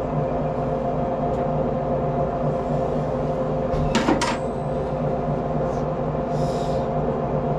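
A steady machine hum, with a short cluster of sharp metallic clicks about halfway through as a wrench works on a car battery terminal, and a brief hiss near the end.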